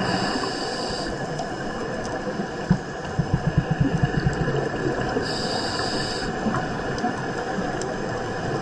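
Scuba regulator breathing underwater over a steady hiss: a hissing inhalation at the start and again about five seconds in, with a quick run of low bubbling pulses from an exhalation between them.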